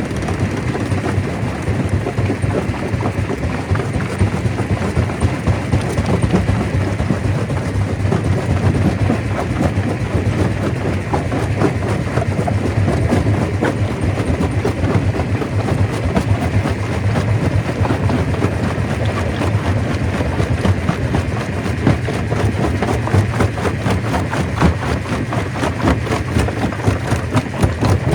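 Stone crusher running, with a steady low rumble and a dense, continuous clatter of rock being broken and tumbling through the machine.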